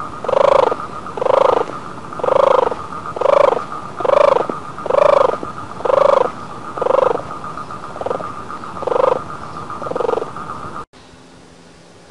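A frog croaking in a steady rhythm, about one call a second, over a continuous high-pitched trill; the calls stop about a second before the end.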